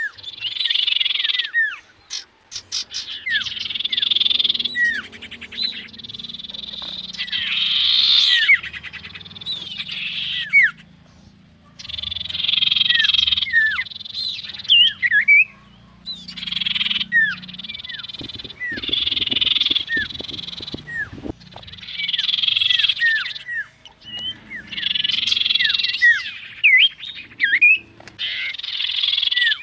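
Frogs calling in dense bursts about every two seconds, with short, high, falling chirps scattered between the bursts.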